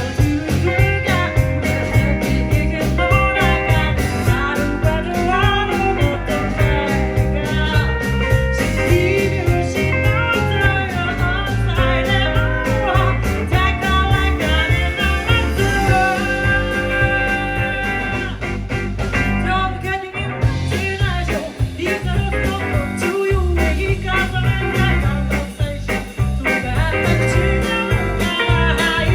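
A live band playing a blues-rock song, with guitar over a steady bass and drum groove.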